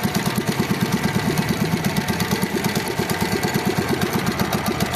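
Mini bike's small engine idling steadily, an even, rapid putter.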